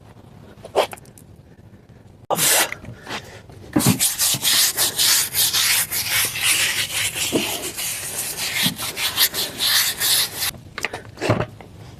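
A stiff-bristled brush scrubbing a car's tire and wheel with wheel cleaner on it: rapid back-and-forth strokes, several a second, starting about four seconds in and stopping about a second and a half before the end. A short hiss comes about two seconds in.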